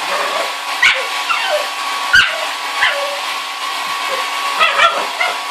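A dog barking and yipping in short outbursts at a running hair dryer, about six times, over the dryer's steady blowing hum.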